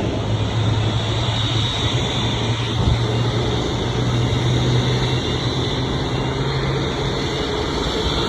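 Jet airliner engine noise, a steady rumble with a low hum that fades out near the end and a faint high whine.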